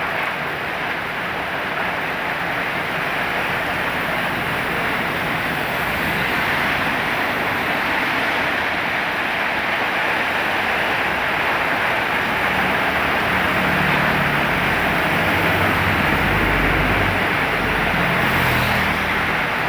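Heavy rain and strong wind, a steady loud hiss. A low rumble joins it about two-thirds of the way through and fades near the end.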